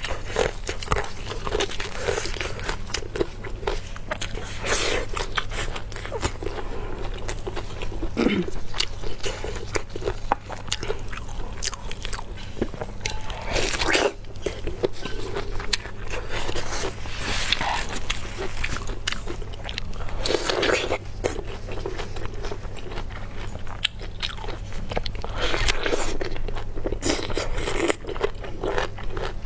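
Close-miked eating: repeated crunching bites and chewing, irregular and continuous, over a steady low hum.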